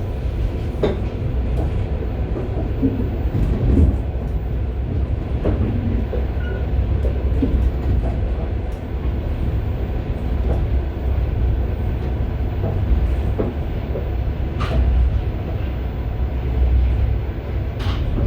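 Rumble and rattling inside the vestibule of a moving passenger railway carriage, with scattered knocks of wheels over rail joints and a couple of sharper clacks.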